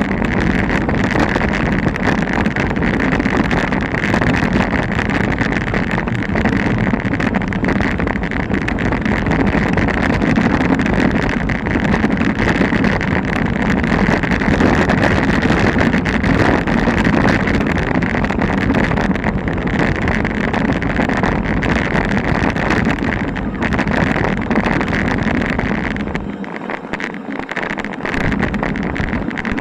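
Mountain bike riding down a rocky, loose trail: wind buffeting the action camera's microphone over the constant rattle of the bike and tyres on stones, easing for a couple of seconds near the end.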